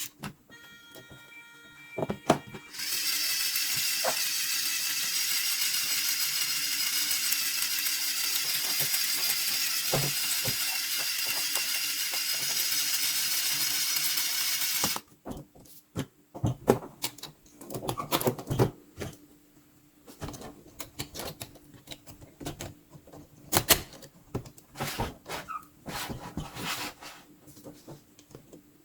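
Sharp plastic clicks and snaps of LEGO pieces being handled and fitted. About three seconds in, a loud steady high-pitched whir sets in, lasts about twelve seconds and cuts off suddenly.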